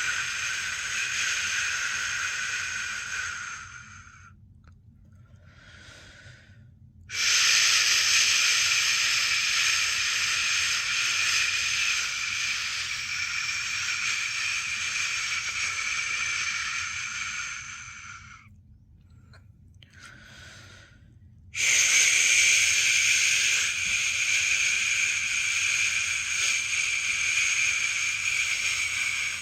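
A person's long 'shhh' shushing, made to soothe a newborn to sleep. Each shush is held for about ten seconds. Two pauses of about three seconds break it, each with a faint short hiss in the middle.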